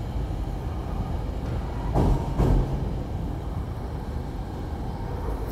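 SEPTA Regional Rail passenger coaches rolling past a station platform: a steady rumble of wheels on the rails, with a pair of clacks about two seconds in as a wheel set crosses a rail joint.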